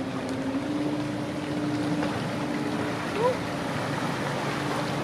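A boat's motor running steadily, its hum stepping up slightly in pitch about half a second in, with a brief rising chirp about three seconds in.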